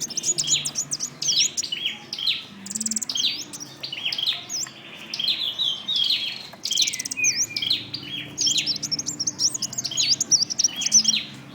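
Male sunbird singing loudly: a rapid, almost unbroken run of high, sharp chirps and quick down-and-up notes.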